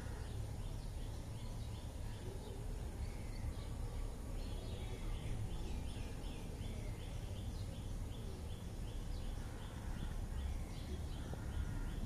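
A bird repeating short, high chirps about three times a second, most steadily from about four seconds in, over a steady low rumble of outdoor background noise.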